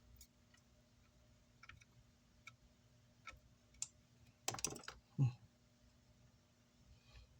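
Scattered light clicks and taps of hand tools and copper wire being handled on an amplifier circuit board during soldering. There is a short clatter and then one louder thump about five seconds in.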